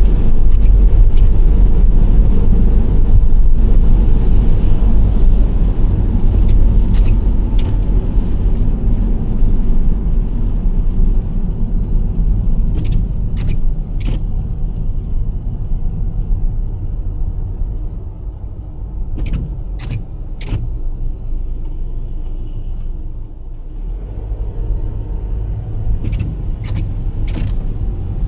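Steady low road and engine rumble of a Nissan Serena C25 minivan driving. It eases off past the middle and builds again near the end. Sharp light clicks come in quick sets of three, four times over.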